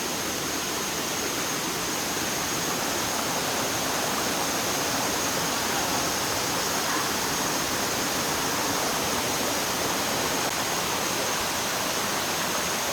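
Steady rushing of flowing water, like a stream or small waterfall, unchanging throughout, with a faint steady high tone above it.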